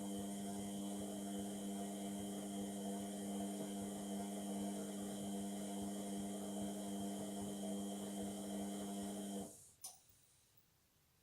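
Indesit washing machine's drum motor running with a steady hum during the wash phase. About nine and a half seconds in it stops and a single click follows, leaving near silence: the pause between the drum's tumbling turns.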